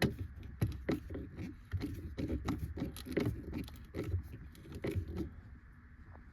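Irregular small clicks and light scrapes of hand tools and wiring being handled as an audio ground wire is tightened down under a T30 Torx screw.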